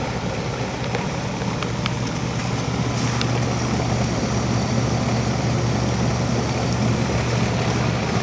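Outdoor heat pump unit running: a steady low compressor hum with fan and air noise.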